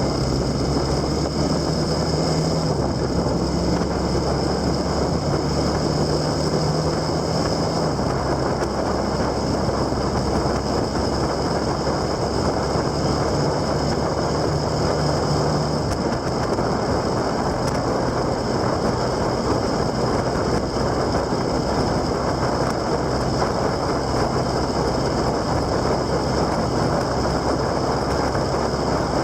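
Motorcycle running at road speed, its engine drone shifting in pitch a couple of times, under steady wind rush on the microphone.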